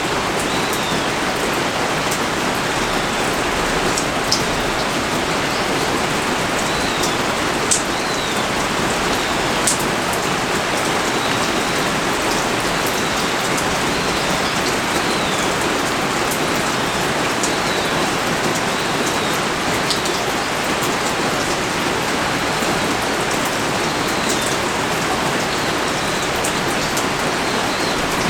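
Heavy, steady rain pouring down, with scattered sharper drop ticks from drops striking a hard surface close by.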